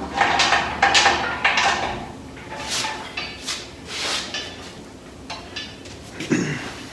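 Irregular metal scraping, rattling and clunking as a radiator is worked loose and lifted out of a pickup's core support, loudest in the first two seconds with further rattles a few seconds in.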